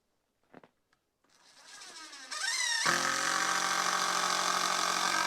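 Power drill spinning up with a rising whine, then running steadily for about three seconds before stopping abruptly.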